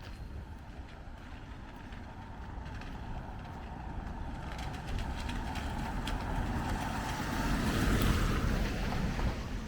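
A vehicle passing on a wet road: tyre hiss on the wet surface builds over several seconds, peaks about eight seconds in, then falls away.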